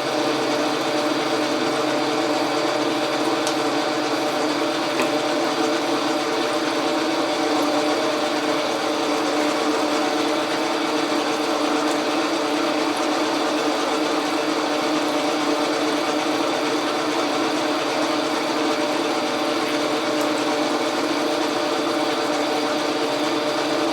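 Logan metal lathe running steadily under power while taking a cut, an even mechanical hum with a whine over it.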